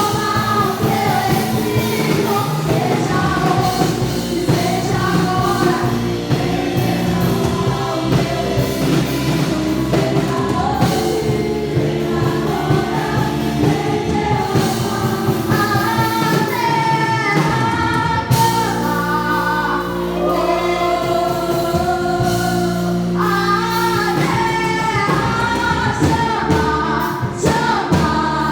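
Worship song sung by several voices together, over sustained instrumental backing.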